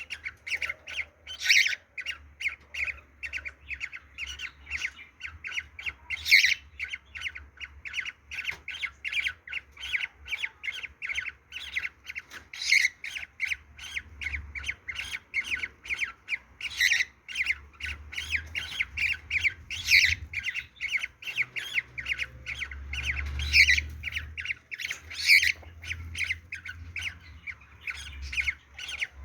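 Cockatiel giving its mating call: a rapid, unbroken string of short, shrill chirping calls, about three a second, with a few louder, harsher calls scattered through.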